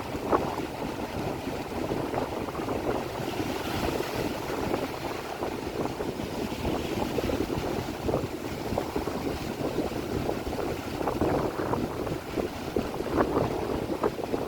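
Steady rain, a dense wash of many small drop impacts with no let-up.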